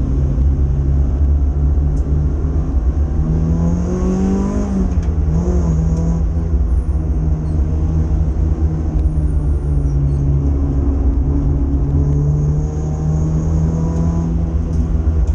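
Renault Clio 182's 2.0-litre four-cylinder engine at racing speed, heard from inside the cabin over a heavy low rumble of road and cabin noise. The revs climb about three to four seconds in, drop sharply about a second later, then hold fairly steady.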